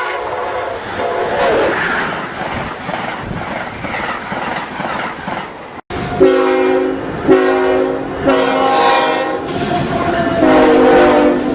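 Passing train with its chime air horn sounding a horn show: train running noise and wheel clatter at first, then, after a brief dropout just before halfway, four loud multi-note horn blasts, the third and fourth longer.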